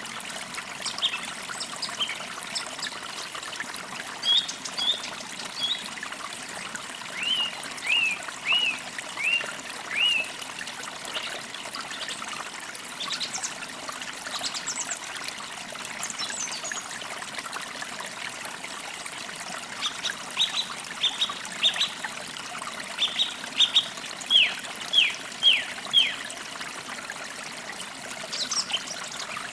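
Songbirds calling in short repeated notes, with two runs of quick downward-sliding notes, over the steady trickle of a stream.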